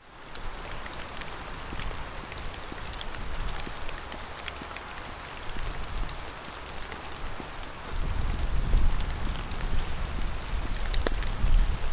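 Steady rain falling, with many small drops ticking close by. A low rumble joins from about eight seconds in and makes it louder.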